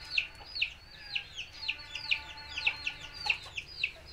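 Rapid repeated bird calls, each a short chirp sliding downward, about three a second.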